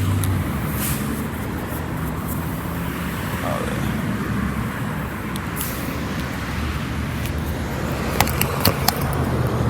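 Steady low hum and rumble of vehicle noise, with a few sharp clicks near the end.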